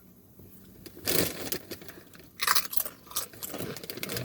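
A chip crunched between the teeth close to the microphone: two loud crunching bites, about one and two and a half seconds in, followed by quieter chewing.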